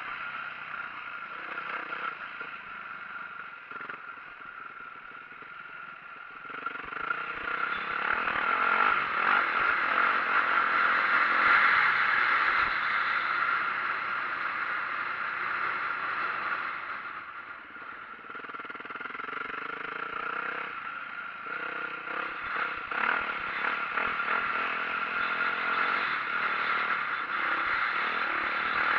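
2004 Yamaha YZ450F four-stroke single-cylinder dirt bike engine under way on a trail, its note rising and falling as the throttle opens and closes. It gets louder about a quarter of the way in, eases off briefly past the middle, then builds again.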